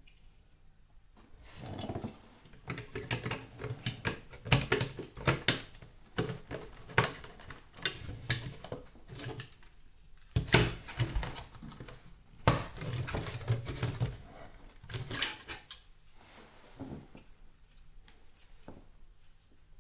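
Plastic LEGO pieces being handled and fitted during a build: a busy run of small sharp clicks and rattles that starts about a second and a half in and thins out after about sixteen seconds.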